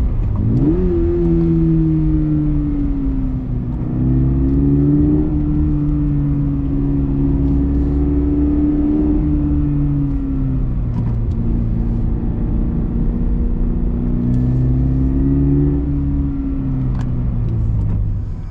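Exhaust note of a Toyota GR86 / Subaru BRZ 2.4-litre flat-four through a COLBASSO Ti-R Plus straight-through titanium single-tail muffler, driven on a mountain road. The pitch holds steady, then dips and climbs again a few times as the car changes gear and speed, and the sound cuts off suddenly at the end.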